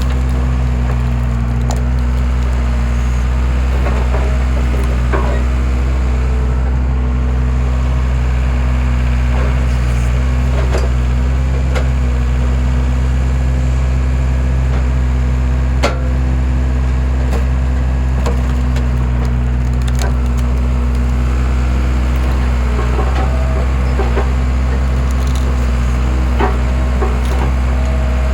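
A skid steer's engine running steadily as it powers a homemade hydraulic log splitter, with scattered cracks and splintering of wood as logs are split; the sharpest crack comes about two-thirds of the way through.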